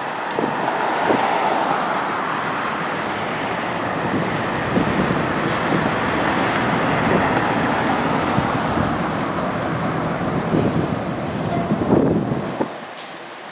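Airbus A380's four jet engines at takeoff thrust, a loud, steady roar that drops off sharply near the end.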